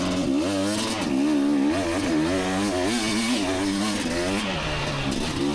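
KTM 250 XC two-stroke dirt bike engine being ridden, its revs rising and falling again and again with the throttle.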